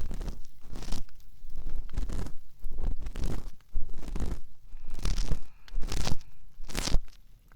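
Ear cleaning on a binaural microphone: an ear pick scraping inside the ear in irregular strokes, close and loud.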